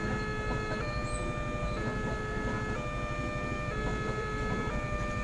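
Railway level-crossing warning alarm sounding a two-tone signal, switching between a lower and a higher tone about once a second, over a steady low rumble.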